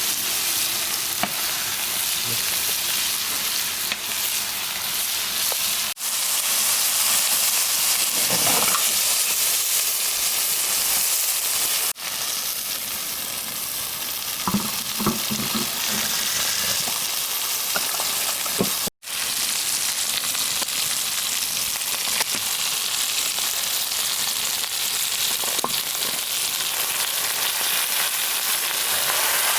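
Food frying and sizzling steadily in pork fat on a cast-iron cauldron lid. The sizzle drops out briefly three times, at cuts in the footage.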